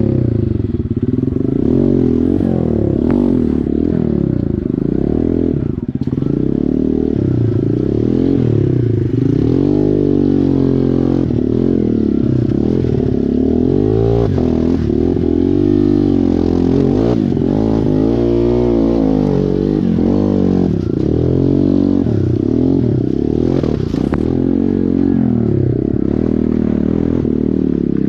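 Small dirt bike engine running under load, its revs rising and falling again and again as it is ridden over rocks, with a few sharp clacks along the way.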